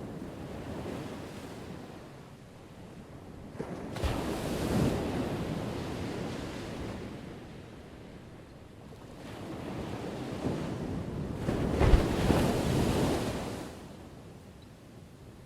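Ocean waves crashing on a shore: two waves break, about four seconds in and again about twelve seconds in, each washing up and fading over a few seconds, with a softer surge between them.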